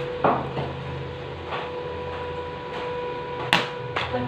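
A steady electrical hum with a few sharp knocks; the loudest knock comes just after the start and another strong one about three and a half seconds in.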